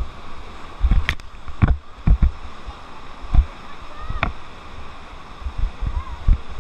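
Raft on a whitewater river: irregular rumbling gusts of wind and rushing water on the microphone, with a few sharp splashing hits, the strongest about a second in and again around four seconds in.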